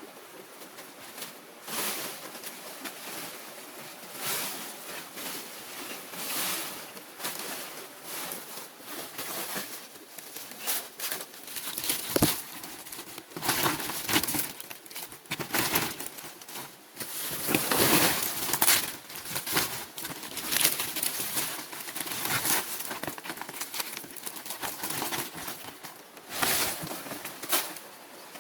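Irregular rustling and crinkling with many short sharp knocks, uneven in loudness and busiest about two-thirds of the way through.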